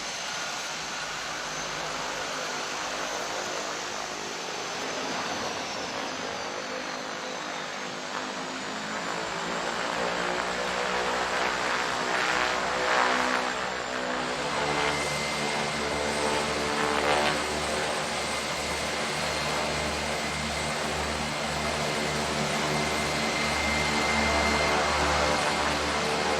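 Propeller airplane engines running, with a droning engine hum that comes in about a third of the way through and grows louder toward the end.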